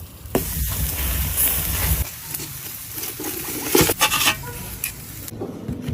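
Food frying in a hot pan: a dense sizzle that starts suddenly just after the opening and stops shortly before the end, with a few sharp clicks of a utensil against the pan.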